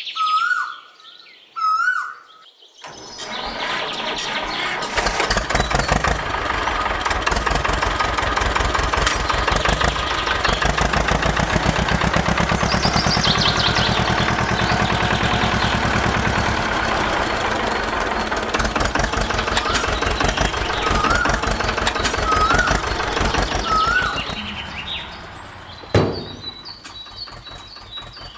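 A small motor starts about three seconds in and runs steadily with a rapid mechanical chatter, then dies away about twenty-four seconds in, followed by a single sharp click. Bird chirps are heard at the start and again briefly while it runs.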